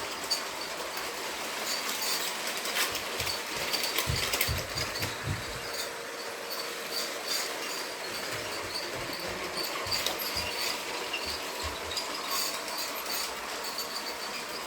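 LEGO toy train running on its plastic track: a steady motor whir with quick, irregular ticking of the wheels and a few low knocks about four seconds in.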